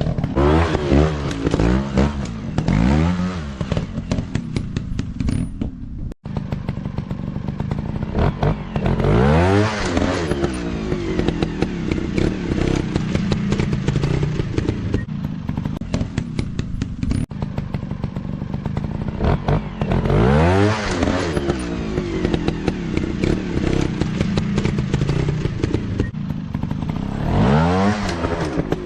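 Dirt bike engines revving hard in repeated bursts of throttle, the pitch sweeping up and falling back every few seconds over a steady engine drone.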